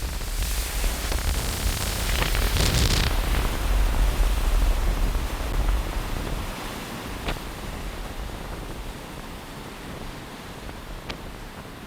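Strong gusty wind buffeting the microphone: a heavy rumbling rush for about the first six seconds that then eases to a lighter, steadier hiss, with a couple of faint ticks in the second half.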